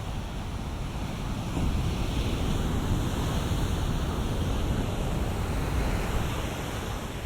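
Heavy shorebreak waves crashing and washing up the sand, swelling about a second and a half in and easing near the end, with a low rumble under the hiss of the surf.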